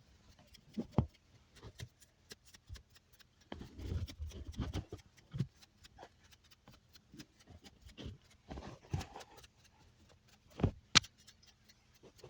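Close-up ASMR mouth sounds: scattered wet clicks and smacks, a denser run about four seconds in and a sharp click near the end.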